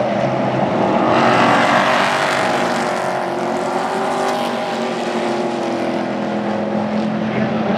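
Several Super Trucks race trucks' engines running at speed on an oval track, with one passing loudest a second or two in.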